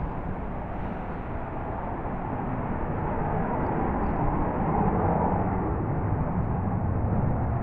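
Jet engine noise from an F-35B Lightning: a steady rumble that grows somewhat louder about halfway through.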